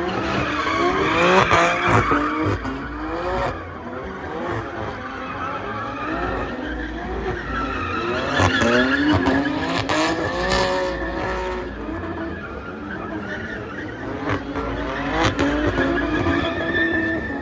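Performance car engines revving hard, their pitch sweeping up and down again and again, with tyre squeal as cars skid.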